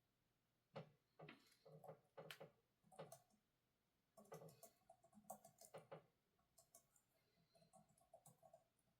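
Soft, irregular taps and clicks of someone working at a desk, with a run of lighter, quicker ticks in the last few seconds.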